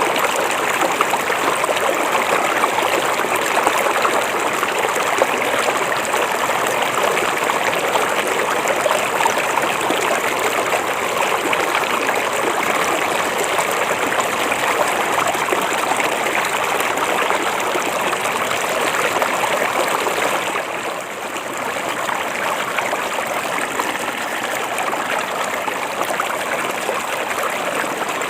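River water flowing, a steady rushing and babbling without letup. The level dips slightly for a moment about three-quarters of the way through.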